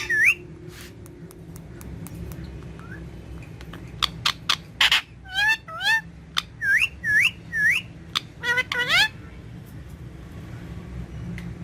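Ringneck parrot (rose-ringed parakeet) giving short, sharp, rising whistled calls, a few right at the start and then a quick run of them between about four and nine seconds in.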